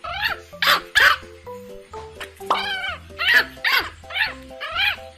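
A pet animal calling again and again in short, loud cries with rising and falling pitch, over background music.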